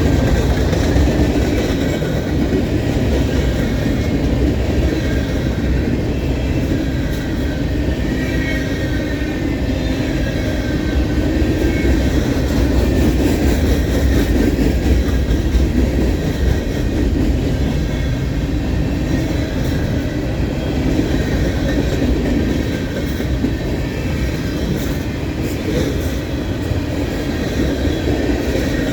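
Freight cars of a manifest train rolling past steadily, a continuous rumble of steel wheels on the rails.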